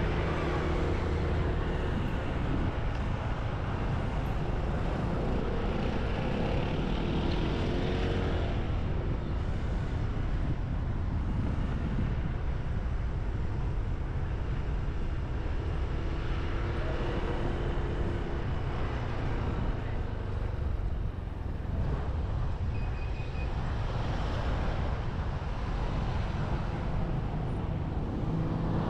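Riding on a motorbike: a steady rumble of wind on the microphone, with the bike's engine and passing traffic underneath.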